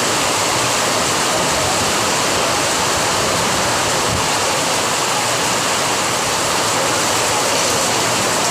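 Heavy rain pouring down: a loud, steady hiss of downpour that does not let up.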